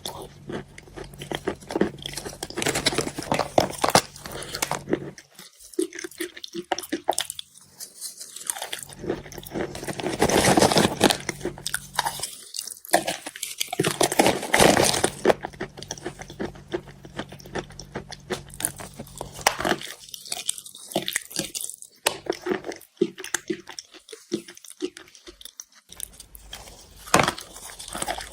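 Wet chalk being bitten and chewed close to the microphone: soft crunching made of many small crackles, growing denser and louder in a few spells.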